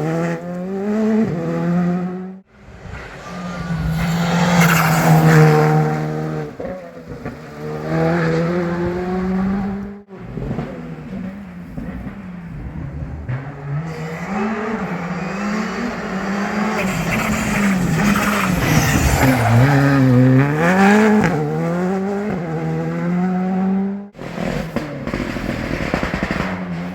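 Rally cars driven hard on a tarmac special stage: engines rev up and drop back repeatedly through gear changes and braking, with some tyre squeal. The sound cuts abruptly three times, changing from one car passage to the next.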